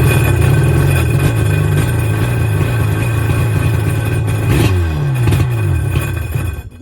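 1996 Tigershark jet ski's two-stroke engine running loudly on its own fuel, with the revs falling and picking up again about two-thirds through. It is the sign that the previously non-running engine now runs.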